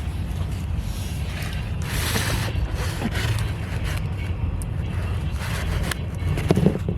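Steady low rumble of a car engine running, heard from inside the cabin, with brief bursts of rustling noise about two and three seconds in.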